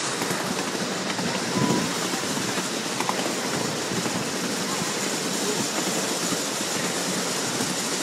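Small ride-on steam train running along its track, heard from aboard: a steady running noise with faint clicks of the wheels on the rails.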